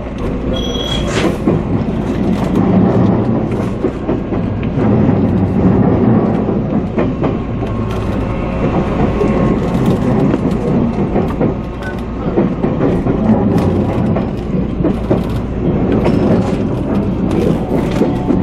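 Electric commuter train rolling slowly over the station points as it comes in to stop at its terminus, a steady rumble of wheels and running gear with irregular clicks and clacks as the wheels cross rail joints and switches, heard from inside the train. A short high beep sounds about a second in.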